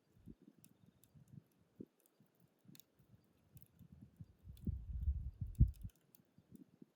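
Wood campfire in a fire-pit stand crackling with sparse, small pops. A louder low rumble comes in about four and a half seconds in and stops about a second and a half later.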